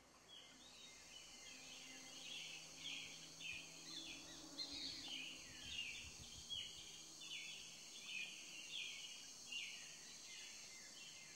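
Faint birdsong: a long run of short chirps, many falling in pitch, about two a second, over a steady faint hiss.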